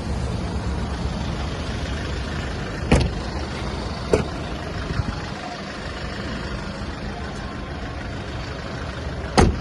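Kia Bongo 3's D4CB four-cylinder turbodiesel idling steadily and smoothly, with three sharp knocks: about three seconds in, a second later, and near the end.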